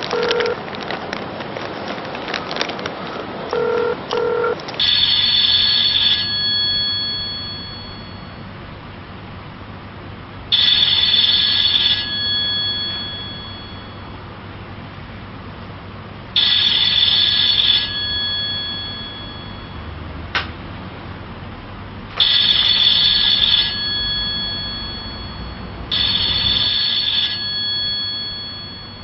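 Telephone keypad beeps and clicks as a number is dialled, then a telephone ringing five times, each ring about a second and a half long with a fading tail. A single sharp click comes between the third and fourth rings.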